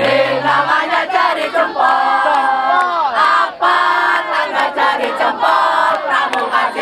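A group of scouts shouting and chanting a yell in unison, with long held notes that slide down in pitch.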